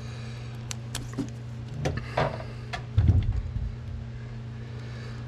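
Hands handling wires in a car's wiring loom: scattered small clicks and rustles, with a louder knock about three seconds in, over a steady low hum.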